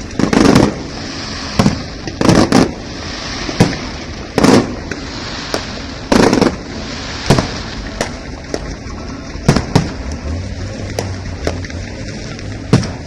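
Fireworks display going off: loud bangs about every two seconds through the first half, then smaller, quicker pops toward the end, over a steady background hiss.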